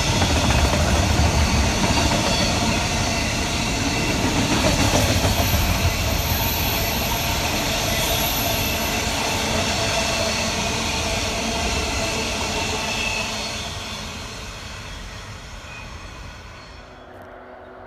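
A train passing by: a loud, steady rail rumble that fades away over the last few seconds as it recedes.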